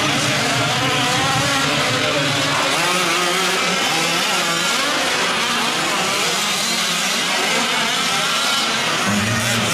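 Several 1/5-scale gas RC trucks' small two-stroke engines revving up and down together while racing, an unbroken overlapping buzz with constantly shifting pitch.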